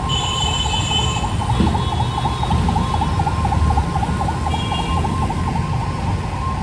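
A siren warbling fast, about four or five cycles a second, over a steady low rumble of traffic.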